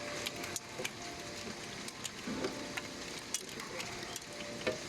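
Heavy rain hissing steadily, with irregular sharp ticks of hailstones striking. A television voice is heard faintly and briefly about halfway through.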